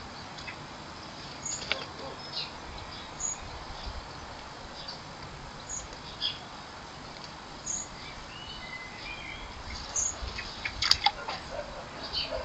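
Garden birds calling: short high chirps repeating every second or two, with a brief warbling phrase past the middle. A quick cluster of sharp taps comes near the end.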